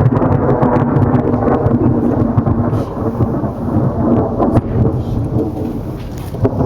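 Thunder rumbling loudly with rain falling; the rumble eases off a little about halfway through.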